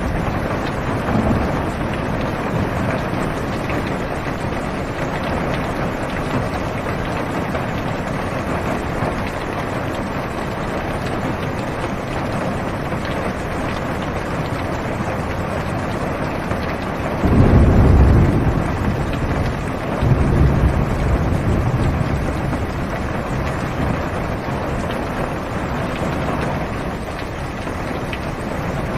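Heavy rain falling on a car's roof and windows, heard from inside the cabin as a steady hiss. A little past the middle a low rumble of thunder rolls in, swells twice and fades over several seconds.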